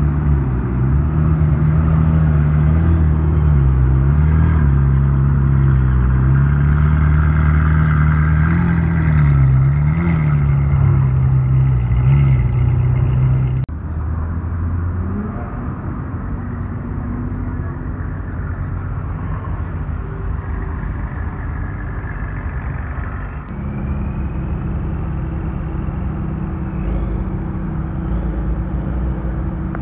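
Ferrari 458 Italia's V8 running at low revs as the car creeps forward, its pitch wavering slightly with small throttle changes. After a sudden cut comes the quieter sound of a BMW M3 moving off slowly. Then another Ferrari 458 Italia's V8 is heard idling as it rolls by.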